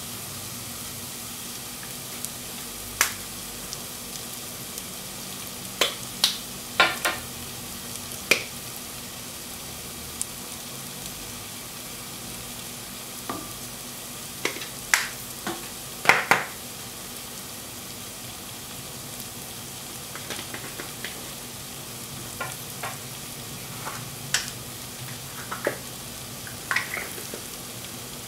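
Chopped onion and garlic sizzling in oil in a stainless steel saucepan, a steady hiss. Scattered sharp clicks and knocks of utensils against the pan come through it as ground spices are added.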